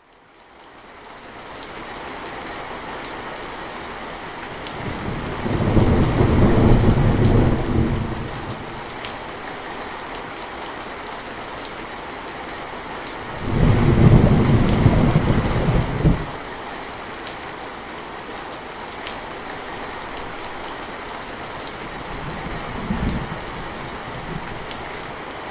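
Steady rain falling, fading in from silence over the first couple of seconds. Two long, deep rolls of thunder come about five and thirteen seconds in, and a shorter, fainter rumble comes near the end.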